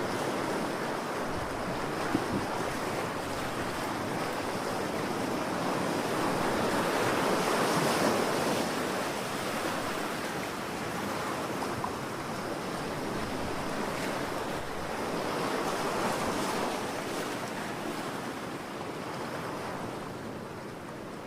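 Ocean surf: a continuous rush of waves that swells twice, as waves break, and ebbs between.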